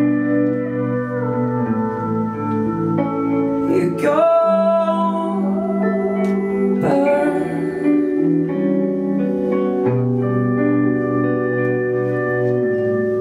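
Live band playing an instrumental passage of a song: guitar over sustained chords, with gliding notes about four and seven seconds in.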